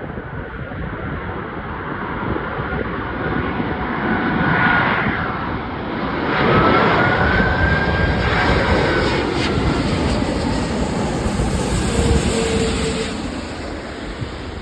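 Airbus A380 jet engines passing close on a landing approach, a heavy rushing noise with a high whine that glides up and down. It swells about four seconds in, is loudest through the middle, and eases off near the end.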